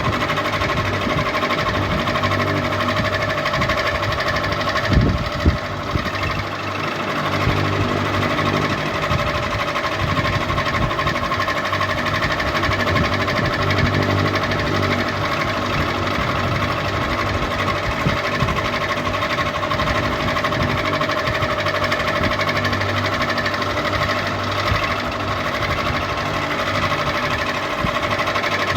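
Ceiling fan running steadily: a motor hum over a fast, even mechanical rattle, with two brief knocks about five seconds in.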